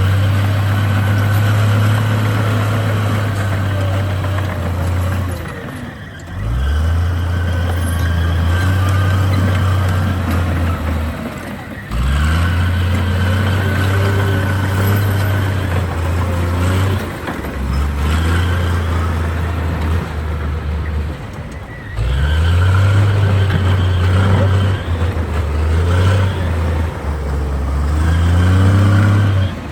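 Komatsu D58 bulldozer's diesel engine working under load in repeated cycles. About every five or six seconds the engine note falls away, then climbs back up in pitch and holds steady.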